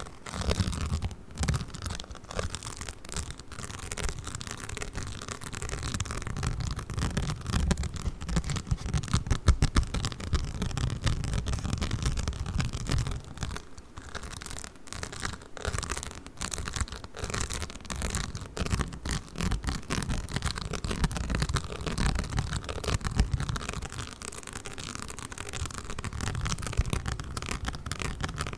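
Play Foam bead modelling compound being squeezed and kneaded, giving a dense, continuous crackling and squishing with soft low thuds.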